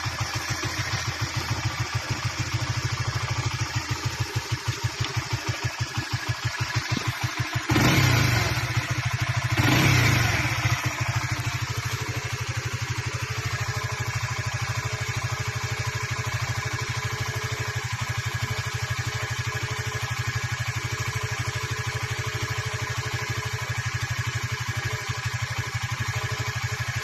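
An engine idling with a pulsing beat, revved twice about eight and ten seconds in, then settling into a smoother, steady idle.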